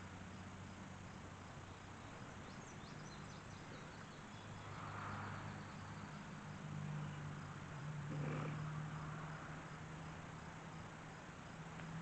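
Faint outdoor ambience of insects chirping, with a brief run of high chirps about three seconds in, over a steady low hum.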